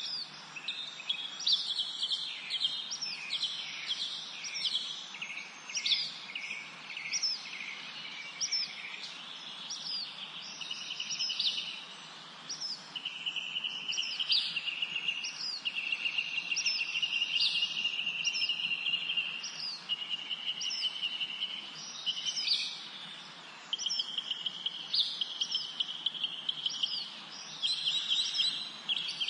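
Several wild birds singing in a spring forest: many short, quick chirps that drop in pitch, overlapping with longer, steadier trills, over a faint steady hiss of background noise.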